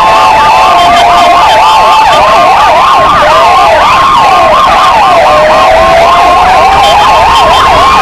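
Several electronic sirens sounding at once, police-motorcycle sirens together with Kingvox ERP sirens: a fast yelp sweeping several times a second layered over slower wails that rise and fall over a few seconds.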